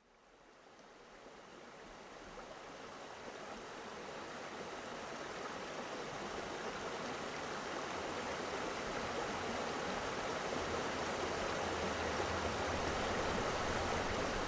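Running water of a stream, a steady rushing that fades in from silence and grows gradually louder.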